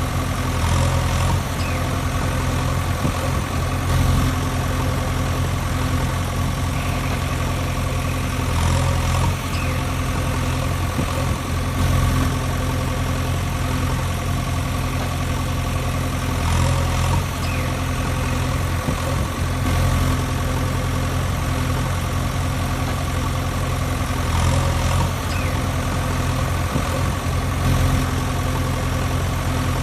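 Tractor engine running steadily at a low idle, its sound repeating in a loop about every eight seconds.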